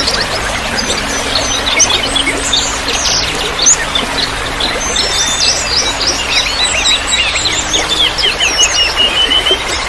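Many songbirds chirping and singing at once, a dense mix of short whistled notes and trills that thickens in the second half, over a steady rushing background of trickling water.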